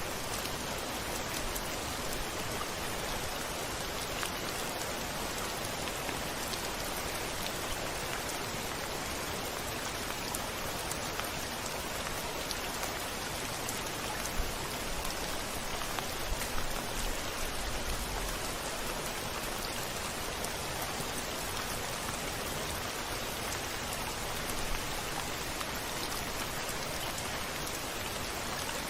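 Steady rain falling on a window glass. About halfway through there is a brief low rumble of distant thunder.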